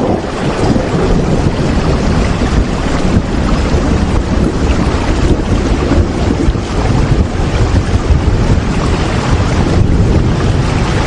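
Steady heavy rain: a dense, even hiss with a strong low rumble underneath.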